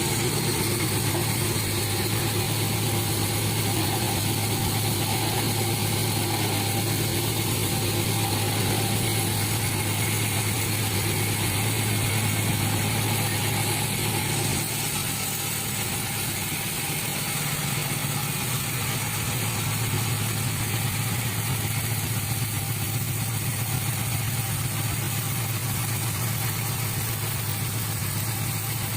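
Sawmill machinery's engine running steadily with a constant low hum, loudness easing slightly about halfway through.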